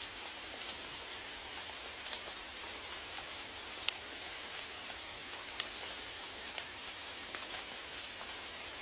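Steady rain hiss with individual raindrops ticking sharply on a surface, one drop noticeably louder nearly four seconds in.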